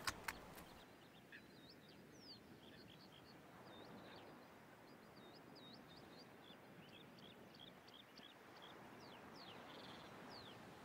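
A couple of sharp clicks right at the start, then faint, quick bird chirps and calls repeating over a quiet outdoor background.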